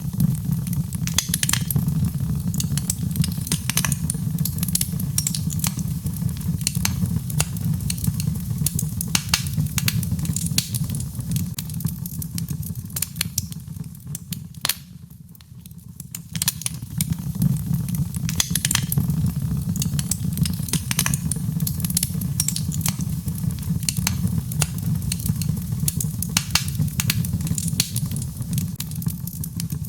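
Birchwood burning in a fireplace, crackling with frequent, irregular sharp pops over a steady low rush of flame. The fire briefly quietens about halfway through, then picks up again.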